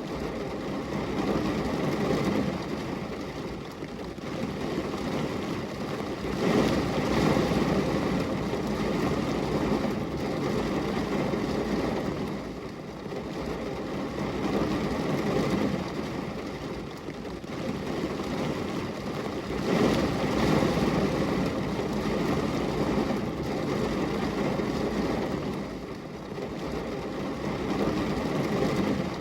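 Steady rain on window glass, a rushing hiss that swells and eases every several seconds.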